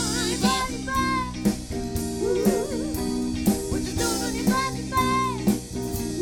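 A live soul band playing, with drum kit hits about twice a second, a steady bass line and a lead melody with vibrato over them.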